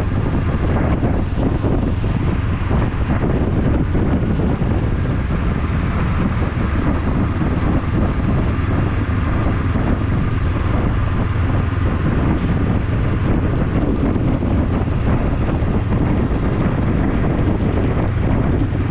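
Wind buffeting the action camera's microphone on a moving motorcycle, with the motorcycle engine running steadily underneath.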